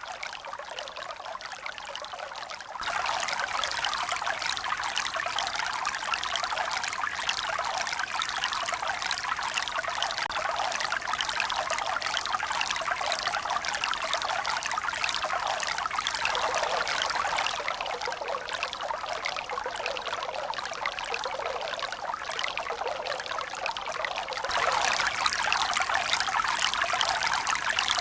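Water running and splashing steadily, like a stream or poured water, with no slow surge of waves. It turns abruptly louder about three seconds in, softens a little in the middle, and swells again near the end.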